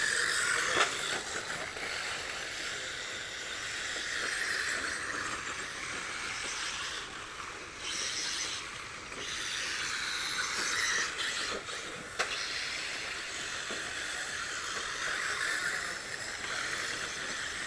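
1/10-scale front-wheel-drive RC rally cars racing on dirt: a hissy whir of motors and tyres on loose dirt that swells and fades as the cars pass, with a couple of sharp knocks, one about a second in and one around two-thirds of the way through.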